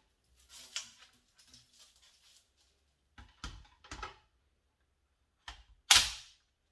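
Hard plastic vacuum cleaner parts being handled: some soft rustling, then several sharp knocks and clicks. The loudest clack comes near the end.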